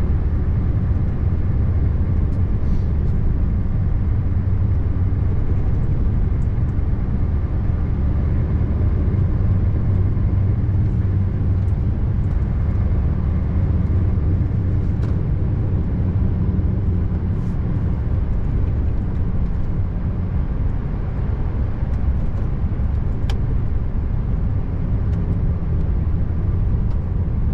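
Scania R590 truck's V8 diesel running steadily under way, a constant low drone mixed with road noise, with a few faint light ticks now and then.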